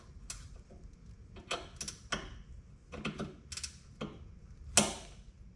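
A hand socket ratchet turning bolts out, in short runs of sharp metallic clicks with a louder clack near the end.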